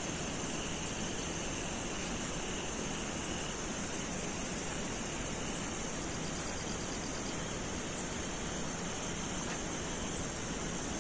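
Steady, even hiss of night-time background noise with a constant high-pitched band and no distinct events.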